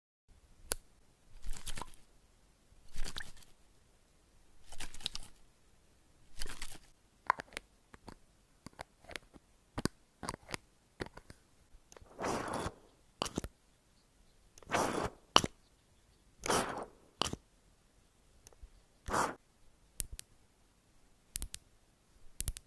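Close-miked ASMR handling sounds: about eight short, crisp scratchy strokes a second or two apart, with sharp clicks scattered between them.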